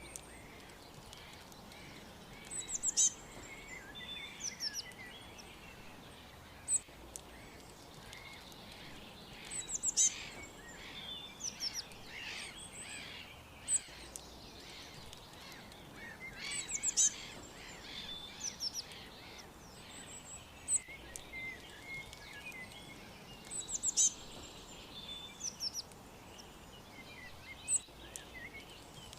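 Several small songbirds chirping and calling, with short high-pitched notes coming in bursts every few seconds over a faint steady hiss of background noise.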